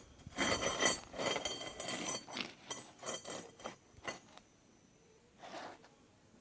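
Clinking and clattering of small hard objects, a quick run of knocks and rattles lasting about four seconds, then one short scrape near the end.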